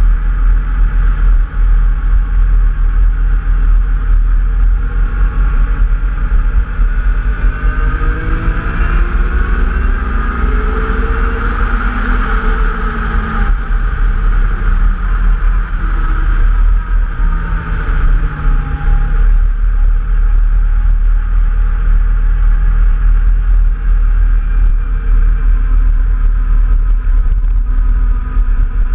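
Off-road vehicle engine running while riding, over a heavy low rumble, its pitch rising and then falling between about 7 and 14 seconds in.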